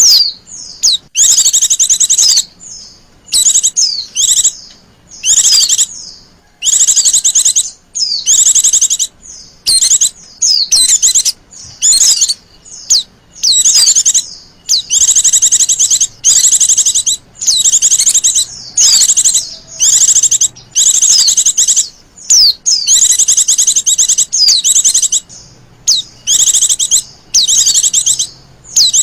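Female white-eye (Zosterops) calling: short bursts of rapid, high-pitched trilled chirps, each opening with a quick downward note, repeated about once a second.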